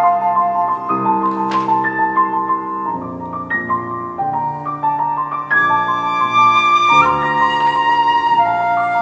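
Flute and piano playing a contemporary classical duet: the flute moves through a quick figure of notes over held piano chords.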